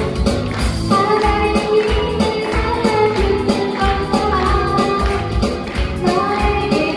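A congratulatory wedding song: a melody sung over instrumental accompaniment with a steady beat.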